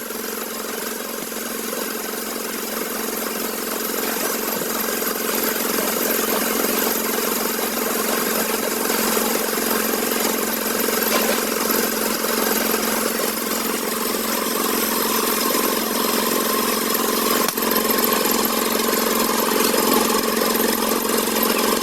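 A steady motor or engine running without a break, getting slowly louder.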